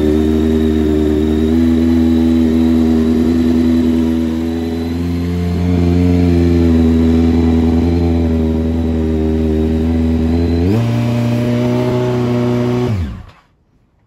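Honda CBR929RR's fuel-injected 929 cc inline-four engine idling steadily. Its revs step up a little about eleven seconds in, then it is switched off and stops abruptly about two seconds later. It is running on the removed-for-sale ECU and chipped key, showing the ECU works.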